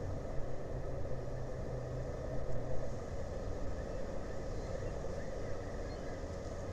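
Steady low engine rumble, its hum dropping a little in pitch about three seconds in.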